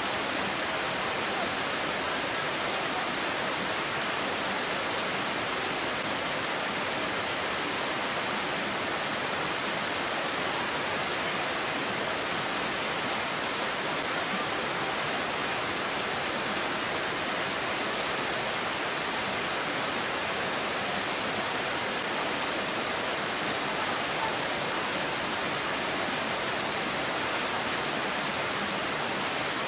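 Steady rain, an even hiss with no distinct drops or gusts standing out.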